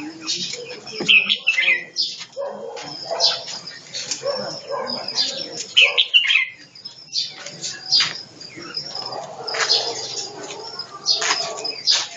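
Caged birds chirping repeatedly, mixed with quick wing flaps and rustles.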